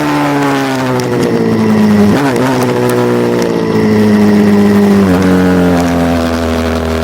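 Racing pit-bike or supermoto motorcycle engine running hard, its pitch slowly sagging, with a brief dip about two seconds in and again about five seconds in.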